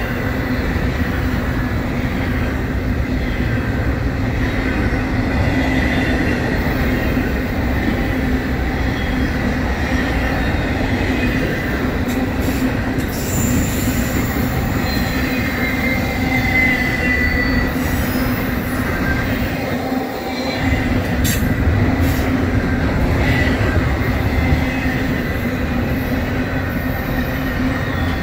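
Norfolk Southern intermodal freight train's double-stack container well cars rolling past: a steady rumble of steel wheels on rail, with thin high wheel squeals coming and going.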